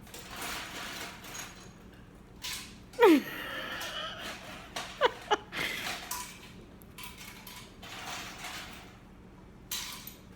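Pet bird handling a piece of ice, giving short scratchy, rustling noises. It gives a falling whistled call about three seconds in and a couple of short falling chirps around five seconds.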